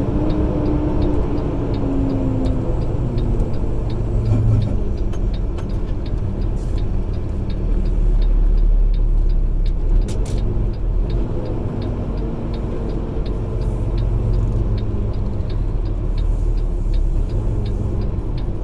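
Truck engine running steadily with road noise, heard from inside the cab, its pitch shifting a little as it goes. A faint, regular light ticking runs through most of it.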